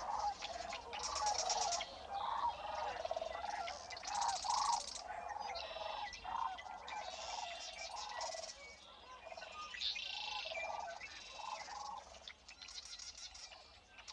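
Several birds calling at once: overlapping short calls and quick high trills, one after another throughout.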